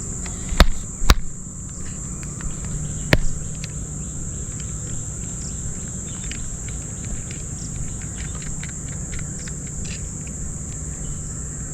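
Steady high-pitched buzzing of insects in woodland, with a few sharp clicks about half a second and a second in, and another near three seconds.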